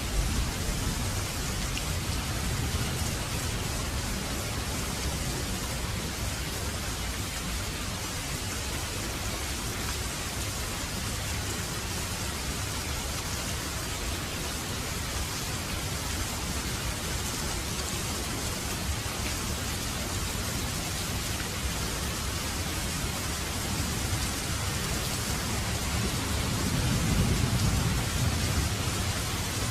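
Heavy rain falling steadily in a dense, even hiss. A low rumble of thunder swells and fades near the end.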